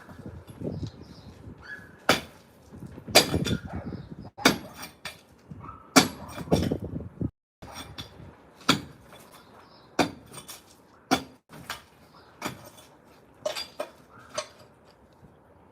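Hand-tool blows on concrete being broken up by hand, without a jackhammer: sharp knocks at irregular intervals of about a second, a few of them trailing into a longer rattle.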